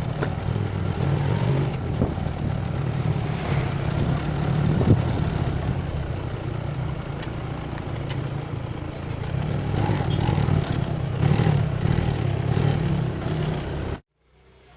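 Motorcycle riding along with the engine running and a steady rumble of road and wind noise on the microphone. It cuts off abruptly near the end.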